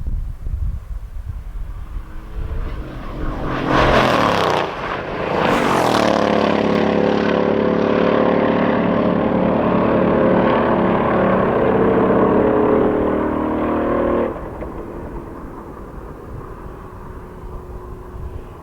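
Mercedes-AMG V8 engine running loud: two quick rising surges about four and six seconds in. It then holds a steady high note for about eight seconds before dropping suddenly back to a quieter low rumble.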